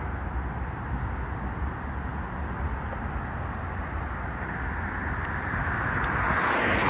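Steady road traffic noise with a low rumble, swelling louder over the last few seconds as a vehicle comes close.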